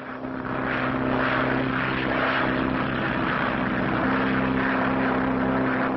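Propeller aircraft engines in flight, a steady drone that swells up over the first second and then holds.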